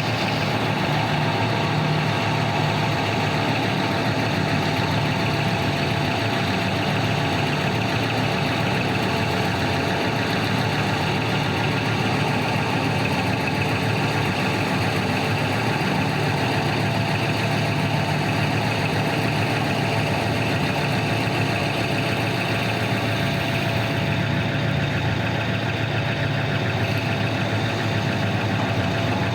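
Large diesel engines of heavy mining machinery running steadily, with a constant high tone over the low engine rumble.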